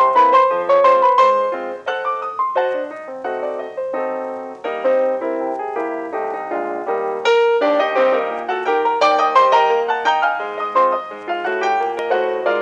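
Piano music: a melody of single struck notes over chords, each note sounding and fading in quick succession.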